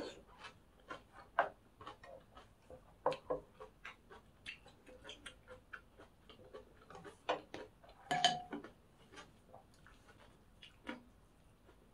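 Close-miked chewing of crunchy pork cartilage (odolppyeo) fried rice: irregular crisp crunches and clicks, a few a second. One louder clink about two-thirds of the way through.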